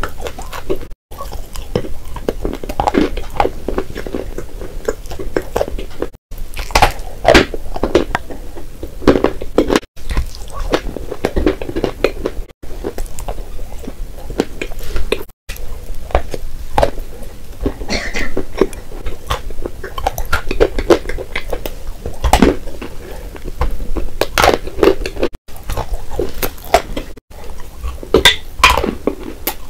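Close-miked biting and chewing of chalk bars coated in clay paste: repeated dry crunches and crumbly, wet chewing, broken by several abrupt short cut-outs.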